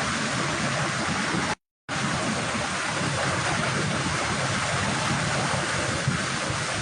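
Hurricane wind and rain making a steady, even rushing noise, cut off completely for a moment about a second and a half in.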